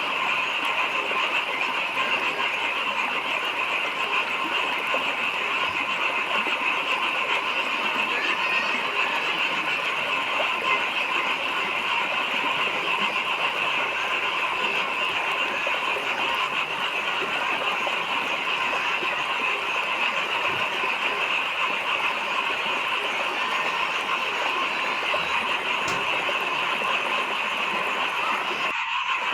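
A dense, steady chorus of many frogs calling together, an unbroken wall of calls with no pauses.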